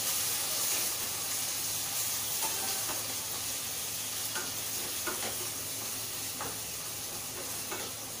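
Chopped onion, garlic and ginger sizzling in hot mustard oil in a steel kadhai while being stirred with a spatula, which knocks and scrapes against the pan now and then. The onion is frying.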